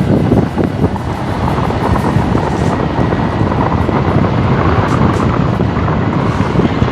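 Motorcycle running steadily along the road, with wind buffeting the microphone.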